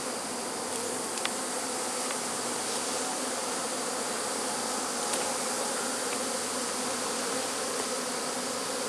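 A swarm of honey bees buzzing all around in a dense, steady hum, many bees flying in the air at once.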